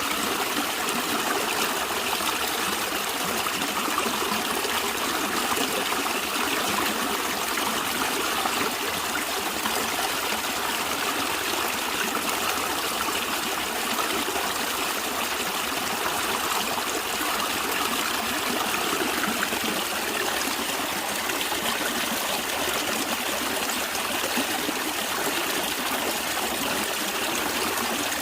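Stream water running and trickling in a steady, even rush.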